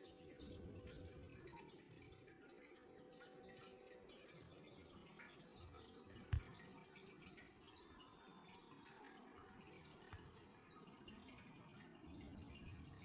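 Near silence with faint room tone, broken by a single low thump about six seconds in.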